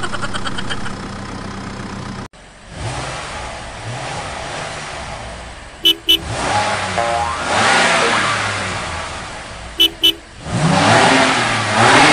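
Car engine revving sounds that rise and fall in pitch with the green toy sports car, broken twice by a quick double horn beep. Before them a steady hum runs for about two seconds and cuts off suddenly.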